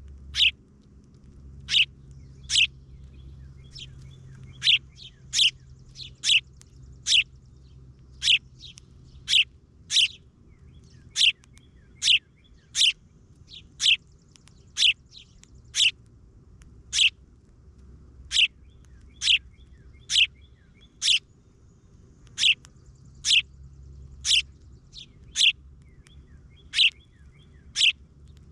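A bird calling a single sharp chirp over and over, roughly once a second, each chirp dropping steeply in pitch.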